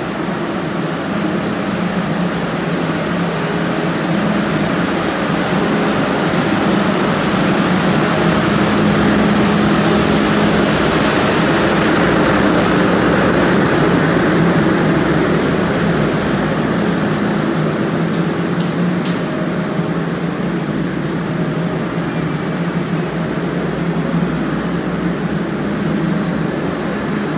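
Steady diesel hum from a standing passenger train whose generator power car is running, swelling a little in the middle.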